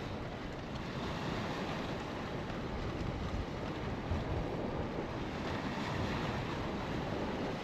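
Wind buffeting the microphone over a steady wash of the sea.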